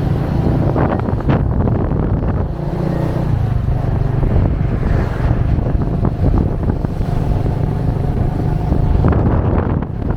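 Moped engine running under way, heard from the passenger seat, with wind buffeting the microphone.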